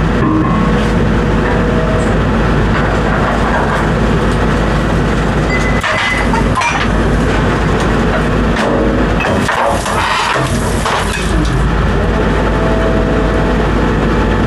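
A heavy engine running steadily, with irregular knocks and scraping from about the middle onward.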